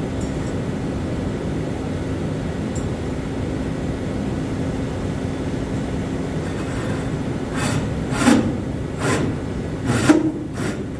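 A steady drone with a low hum throughout, then about five short scraping strokes, rubbing or rasping on wood, in the last few seconds.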